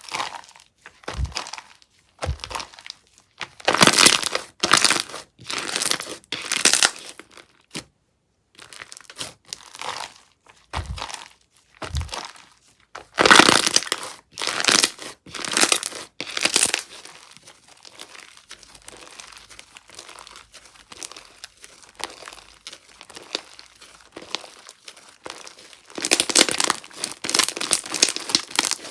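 Slime being pressed, stretched and squished by hand in repeated bursts, each one a dense crackling with popping clicks, with quieter handling between them.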